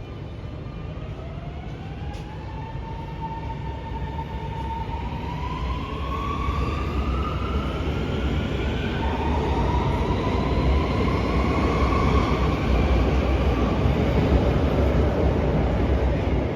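C751C Alstom Metropolis metro train accelerating away, its traction motors whining and rising in pitch, dropping back about halfway and climbing again, over a steady rumble of wheels. It gets louder throughout.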